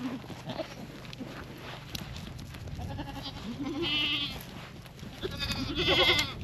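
Goats bleating: two long wavering bleats, about four seconds in and again near the end, the second the loudest, over a low steady hum.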